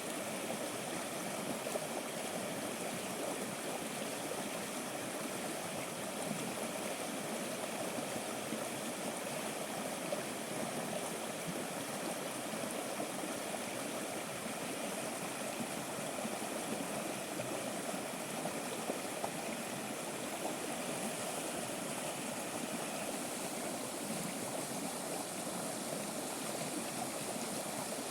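Steady rushing of running water, like a stream flowing, even and unbroken throughout.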